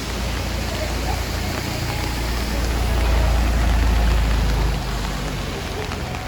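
Steady rain hiss on a wet city street, with a vehicle passing: a low rumble that swells to a peak about three to four seconds in, then falls away.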